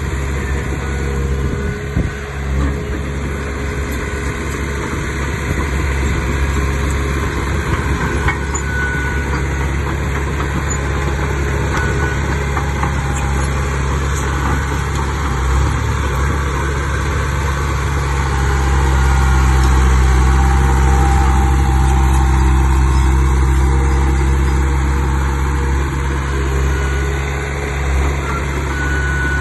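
Heavy earthmoving machine's engine running steadily, growing louder for several seconds past the middle before easing back.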